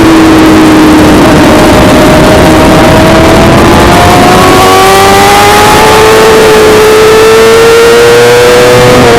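Suzuki GSX-R600 inline-four engine pulling hard at speed. Its note sags slightly early on, then climbs steadily through the rest of the gear, over heavy wind rush.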